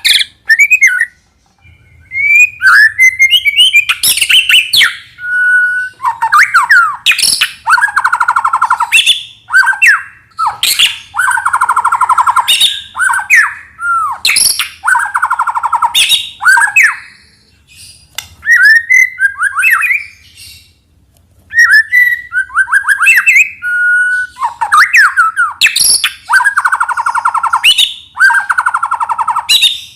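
White-rumped shama singing: loud, varied phrases of rising and falling whistles alternating with harsh, buzzy rattles, with short pauses between bursts.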